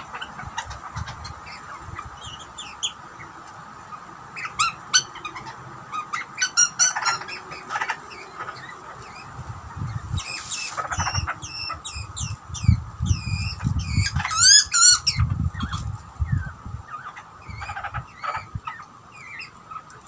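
Butcherbirds calling: a string of short squawks and hooked, whistled notes, thickest about halfway through, over irregular low rumbling bumps.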